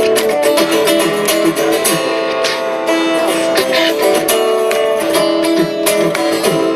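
Live acoustic guitar strumming chords in an instrumental passage of a song.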